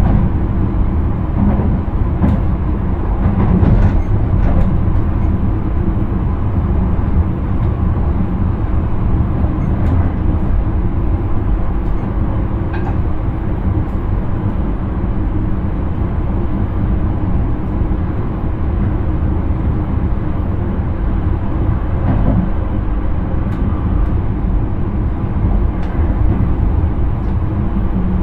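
Intercity train running along the track, heard from inside the driver's cab: a steady low rumble of wheels and running gear, with a few faint clicks.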